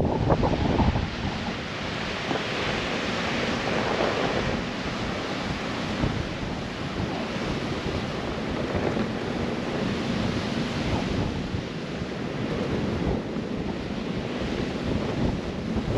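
Blizzard wind gusting across the microphone, a steady rushing noise that swells and eases, with a few low bumps in the first second.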